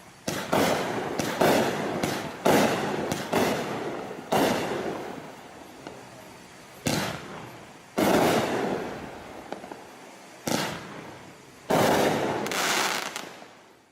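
Raccoon Fireworks 'Breakthrough' 200-gram consumer firework cake firing: about a dozen loud shots at uneven intervals, each trailing off in a fading hiss, with the last one dying away near the end as the cake finishes.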